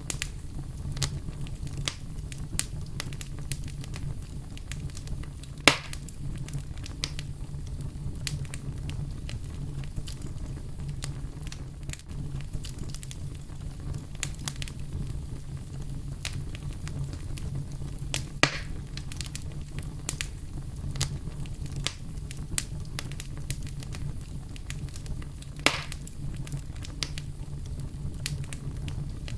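Wood fire burning in a fireplace: a steady low rumble with constant small crackles, and three louder sharp pops spread through it.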